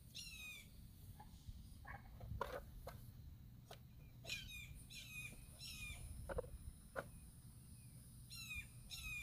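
Faint bird calls: quick runs of short, slightly falling notes, heard in a few bursts, near the start and again around the middle and near the end. A few soft knocks come in between as the plastic engine cover of the outboard is worked onto the motor.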